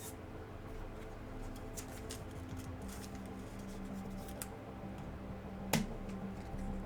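Trading card packs and cards being handled: scattered light clicks and crinkles, with one sharper snap near the end, over faint background music.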